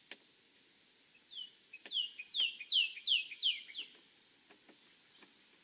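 A songbird singing a phrase of about six loud down-slurred whistles in quick succession, preceded by a couple of softer notes, with a few faint clicks underneath.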